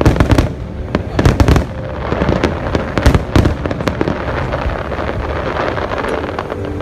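Aerial firework shells bursting in a quick series of sharp booms, several in the first four seconds, with a dense crackle running on between and after them.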